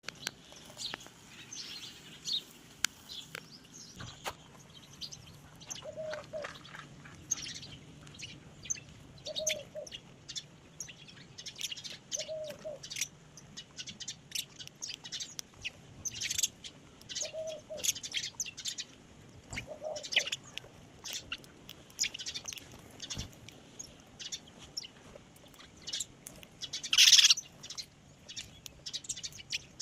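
Small birds chirping and tweeting in many short, high calls, with a low double note repeating every few seconds and one louder, longer call near the end.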